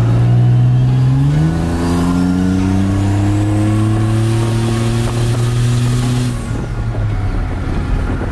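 Turbocharged V6 pickup truck engine under acceleration: it holds a steady note for about a second, jumps up in pitch, then climbs steadily for several seconds before dropping off near the end as the throttle comes off. A faint high whistle rises over the engine note in the middle.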